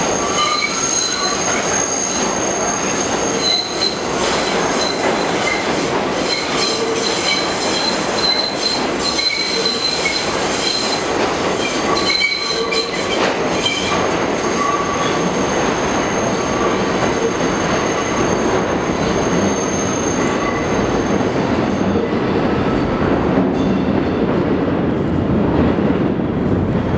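Kawasaki R62 subway cars' steel wheels squealing through the tight curve of the South Ferry loop as the 1 train pulls out, with clicks over the rail joints and a steady rumble of the cars. Near the end the high squeal dies away and a lower rumble takes over.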